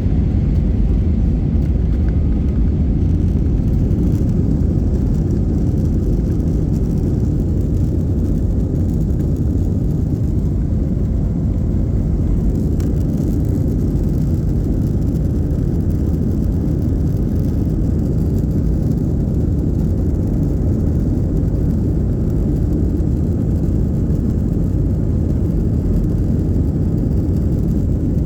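Steady low rumble of jet airliner cabin noise, even and unchanging throughout.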